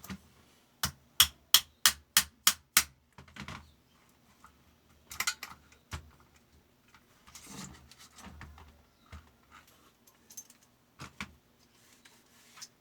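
Small metal parts being handled during work on a fabric cutting machine's sharpener: a quick run of seven sharp clicks about three a second, then scattered clicks, rattles and rustling.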